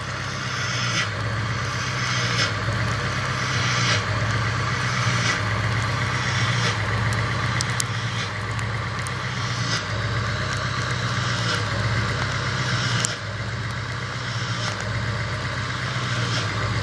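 Ford Power Stroke diesel engine running cold, its sound changing about every one and a half seconds in a recurring sneeze-like puff. The owner hears this only when the engine is cold and does not know its cause.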